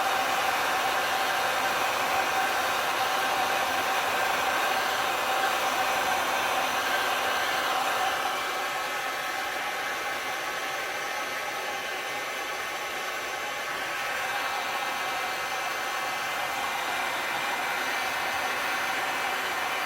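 Heat gun blowing steadily, a rush of air with a faint hum in it, dropping a little in level about eight seconds in.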